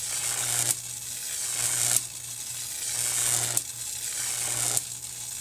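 Pressurised water hissing as it spurts from a crack in a PVC pipe at a water well. The hiss swells and drops off sharply about every second and a half. The owner puts the crack down to the pipe freezing last winter.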